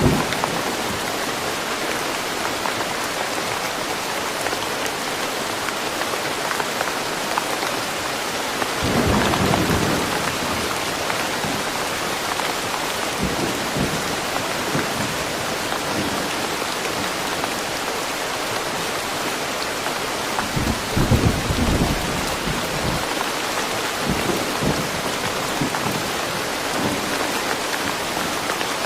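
Steady rain falling in a forest, with low rolls of thunder about nine seconds in and again around twenty-one seconds.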